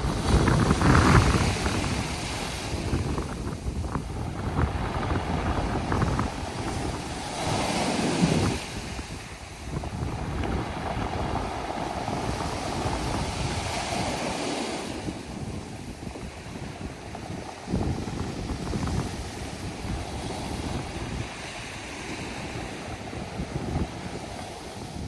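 Sea waves washing in and out over a pebble beach, the water rushing through the stones, with louder surges every several seconds. Wind buffets the microphone.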